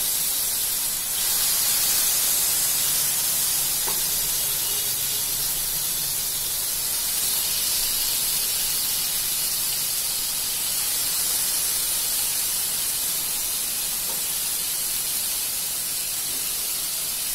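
Marinated tandoori chicken legs sizzling in hot mustard oil in a frying pan: a steady high hiss as the pieces are laid in one after another, with a few faint knocks.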